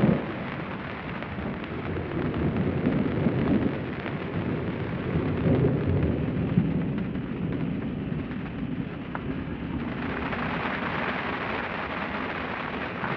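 Heavy rain pouring down, with rolling thunder rumbling underneath. About ten seconds in the rumble eases and the hiss of the downpour comes to the fore.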